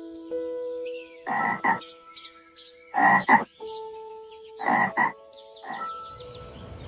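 Short, rough croaking calls in pairs: three double croaks about a second and a half apart, then a single shorter one. Steady held notes of background music run underneath.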